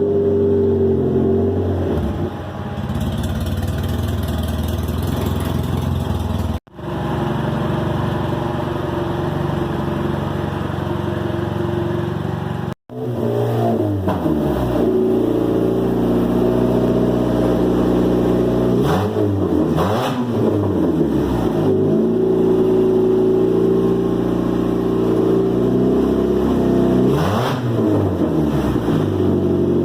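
Loud race car engine running, its revs dipping and climbing again twice, as the car is driven to warm up the oil.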